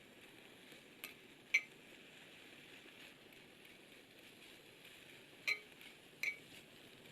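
Metal cooking utensils clinking against cookware on a campfire grill: four short ringing clinks in two pairs, about a second in and again about five and a half seconds in.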